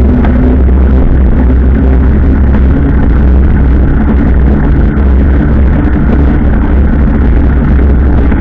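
Steady, loud low rumble of a moving vehicle, with faint engine tones on top.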